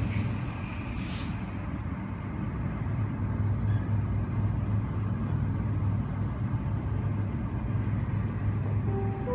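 Steady low droning rumble of airport terminal ambience. Near the end, an airport public-address chime starts with a few clear stepped tones, the signal ahead of a boarding announcement.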